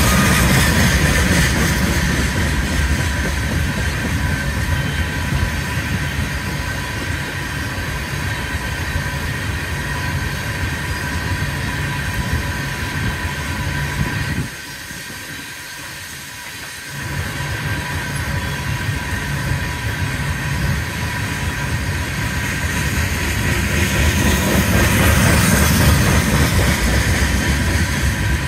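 Freight train's gravel cars rolling past at close range: a steady low rumble of steel wheels on rail with steady high ringing tones over it. The sound drops sharply for a couple of seconds about halfway through, then picks up again.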